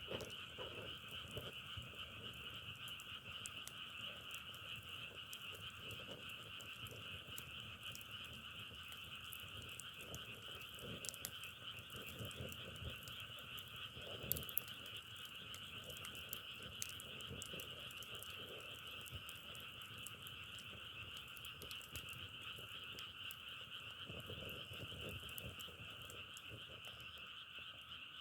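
A dense frog chorus, a steady, unbroken trilling that never pauses, with a few sharp clicks scattered through it.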